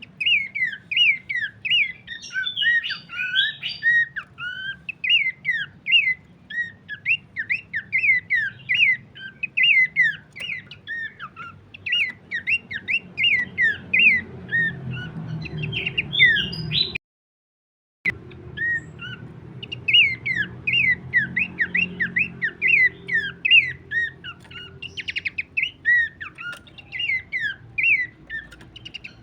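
Pelanduk semak babbler singing: a fast, unbroken run of short sweeping whistled chirps, several a second, cut by a brief total silence about two-thirds of the way through.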